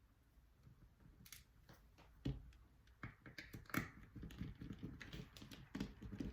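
Irregular small clicks and taps of small parts and tools being handled, sparse at first and more frequent from about two seconds in.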